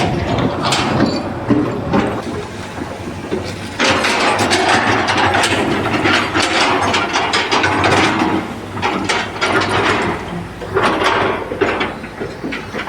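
Irregular mechanical clattering and knocking, dense and continuous, with many sharp clicks.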